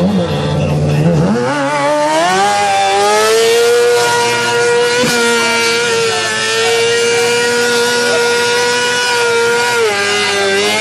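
Motorcycle engine revving up about a second in and then held at steady high revs for several seconds, with a brief dip in revs near the end.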